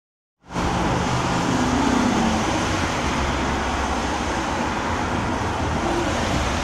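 Road traffic in the rain: vehicles passing on a wet road, with a steady hiss and a low engine rumble. It starts abruptly about half a second in.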